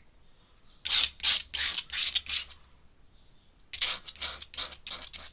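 Pen scratching on sketchbook paper in two runs of quick, short hatching strokes, about five or six strokes each, with a pause between the runs.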